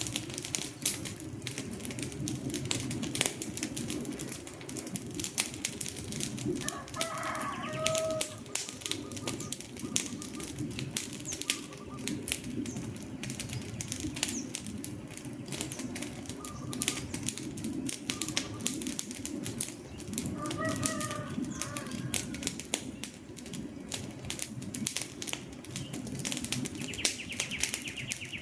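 Wood fire burning: dense, irregular crackles and pops over a low, steady rush of flames. Faint pitched calls rise out of it about seven seconds in, again around twenty seconds in, and at the very end.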